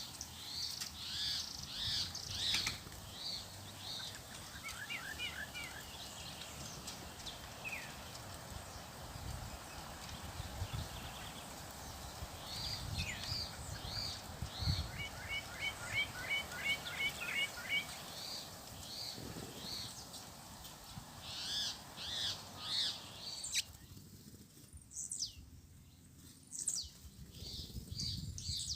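Several small songbirds chirping with repeated short high calls, with two quick rapid trills in the middle.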